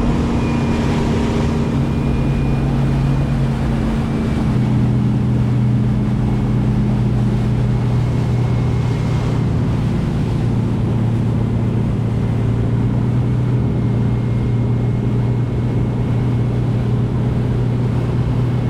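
Motorboat engine running steadily under way, with wind and water noise; the engine note drops a little about four seconds in.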